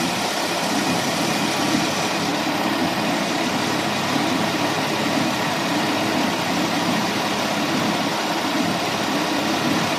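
Chevrolet Venture's 3.4-litre V6 idling steadily at operating temperature.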